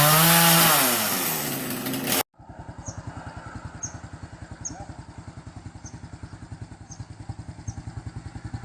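Loud, dense noise with a pitched engine-like tone rising and falling, cut off suddenly about two seconds in. Then a small engine idling with an even putt-putt of about ten beats a second, with a faint high chirp about once a second.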